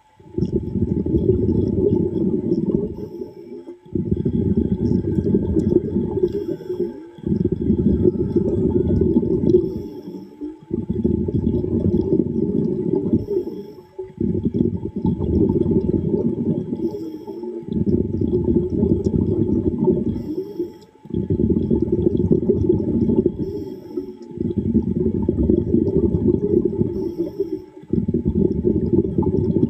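A diver breathing underwater: each exhale comes out as a rush of bubbling, rumbling noise, about nine breaths in a steady rhythm of roughly one every three and a half seconds, with a short lull between them.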